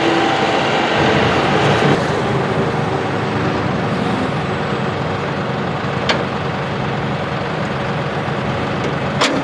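John Deere 5055E tractor's three-cylinder turbo diesel running steadily, its note changing about two seconds in, with two sharp clicks near the end.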